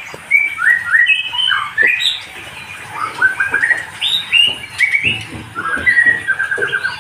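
Songbirds chirping and calling in quick, short, repeated notes that overlap one another with hardly a break.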